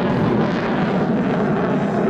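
Jet engines of a MiG-29 fighter in flight: a loud, steady rush of jet noise.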